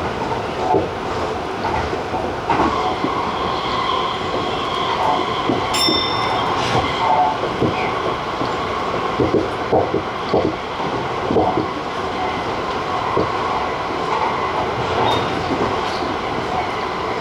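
Tobu 50090-series TJ Liner electric train running along the line, heard from the cab: a steady running noise with wheels clicking over rail joints, and a brief high tone about six seconds in.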